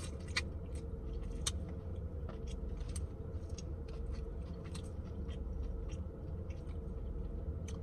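A person eating a green-lip mussel close to the microphone: chewing and lip-smacking, with short irregular wet clicks scattered throughout, over a steady low hum.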